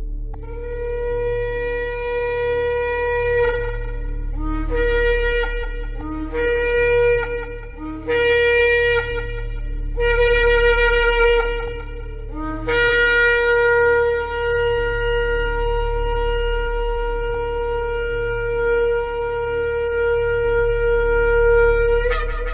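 Shofar (ram's horn) sounding a series of blasts. It opens with a long held note, then gives four shorter blasts, then a very long sustained blast that swells and lifts in pitch just before it stops.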